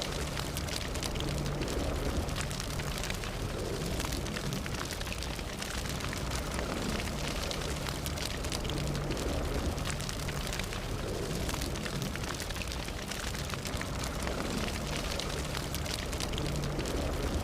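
Fire burning steadily with a low rumble, dense crackling and many small pops throughout.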